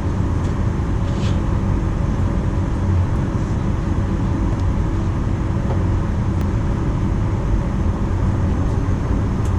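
Steady cabin noise inside a Boeing 737-900, an even rumble and rush from its CFM56-7BE engines and the airflow, with no distinct events.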